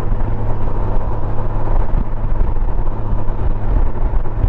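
Honda Gold Wing motorcycle cruising at a steady road speed: an even engine drone under wind and road noise.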